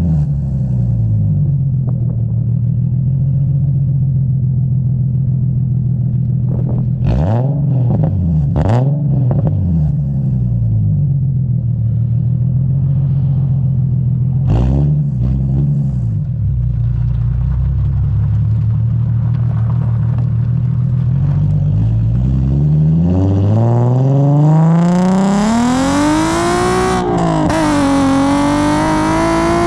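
Infiniti G37S coupe's 3.7-litre V6 through a custom 3-inch single catback exhaust, running at a steady low note with a few brief rises and falls in revs. Near the end the revs climb steeply, dip once, and climb again.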